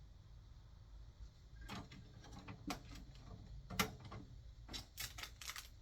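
Light plastic clicks and knocks from handling a printer and its ink cartridges, scattered at first, with one sharper knock midway and a quicker run of clicks near the end.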